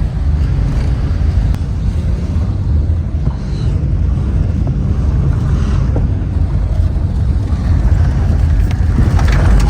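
2004 Ford Taurus's 3.0 L V6 driving under power with a steady low rumble of engine and running gear, heard from inside the car. The engine is running on Dawn dish soap in place of motor oil, and the car has just shifted up a gear.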